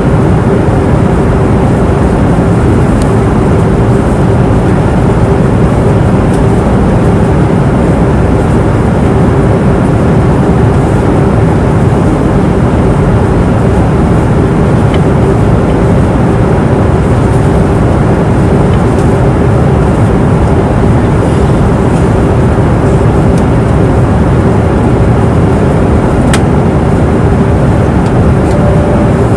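Passenger airplane cabin noise in flight: a steady rush of engine and airflow noise, heaviest in the low end, with a steady hum tone over it.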